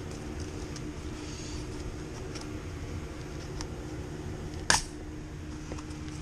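Light clicks and one sharp metallic click about three-quarters of the way in, from hand tools working on the evaporator coil's expansion valve and copper line, over a steady low machine hum.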